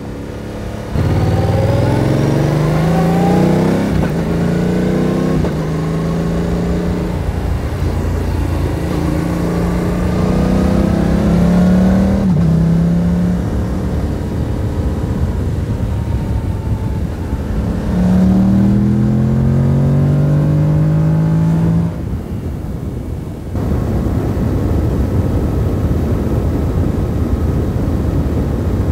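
2022 Yamaha R7's parallel-twin engine accelerating through the gears: the note climbs, drops sharply at each upshift and climbs again. Near the end the engine note gives way to a steady rush of wind and road noise.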